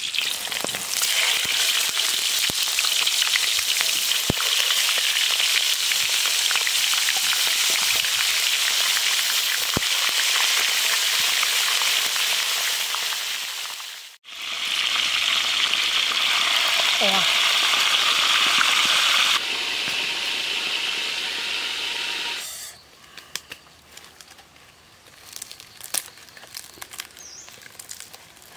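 Chicken frying in oil in a wok over a wood fire: a steady sizzle with many small crackles. It cuts out briefly near the middle, comes back, then fades about three-quarters through, leaving faint handling sounds of the cooked chicken being torn apart by hand.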